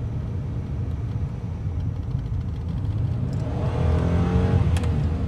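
1999 Dodge Intrepid's 2.7-litre V6 running with a steady low drone while driving. About three and a half seconds in it revs up under acceleration, with a rising whine on top.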